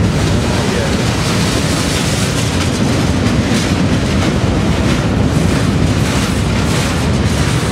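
Slow, heavy freight train rolling past at close range inside a rail tunnel: a loud, steady low rumble of the wheels and cars.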